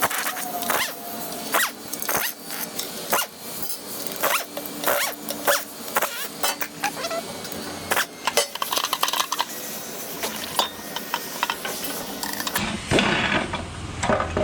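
Hand ratchet clicking in quick, irregular runs, mixed with light metal taps, as bolts are worked loose. A fuller, louder noise comes in near the end.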